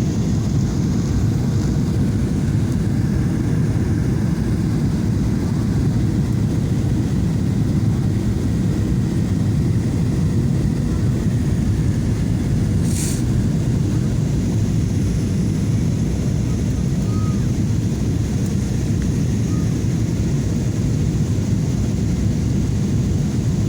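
Steady cabin noise inside a Boeing 737-800 airliner in flight: a low, even roar of engines and airflow with a faint steady hum. There is a brief hiss about halfway through.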